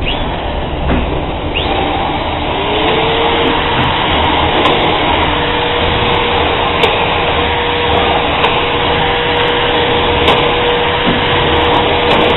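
Air-conditioning unit running with a loud, steady rush of air and a motor hum that rises in pitch about three seconds in and then holds steady.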